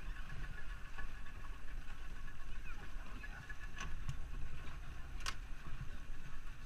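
Steady low rumble of a boat out on the water, with wind buffeting the microphone and faint distant voices; two sharp knocks, about four and five seconds in.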